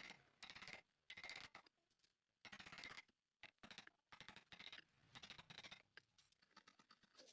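A hand tool working wood in repeated rasping strokes, about one stroke a second, each lasting roughly half a second.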